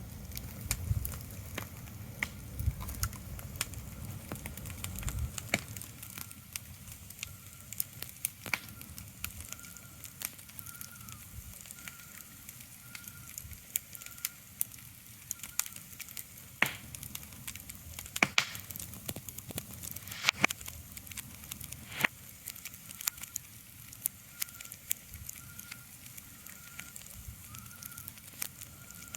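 Ambient soundscape of sparse crackles and clicks over a soft hiss, with a few louder snaps. A faint high chirp repeats about once a second, and a low rumble fades out in the first few seconds.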